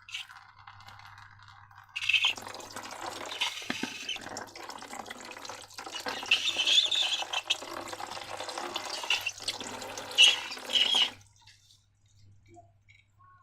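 Wet slime squelching and pouring out of a balloon: a crackly, sticky liquid sound that starts about two seconds in and stops about two seconds before the end.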